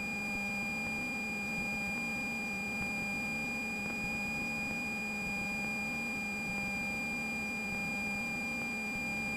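Steady high-pitched electrical whine made of several unchanging tones over a faint low hum, in the cockpit intercom and radio audio of a Cessna 172.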